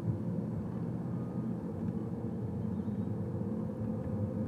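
Steady low hum of a car's engine and tyres on the road, heard from inside the cabin while driving.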